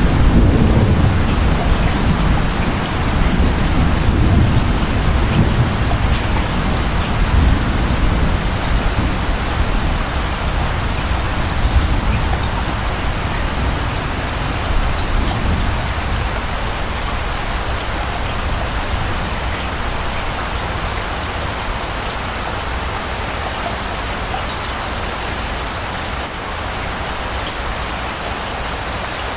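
Steady rain with a low rumble of distant thunder that is strongest at the start and dies away over the first half, leaving even rainfall.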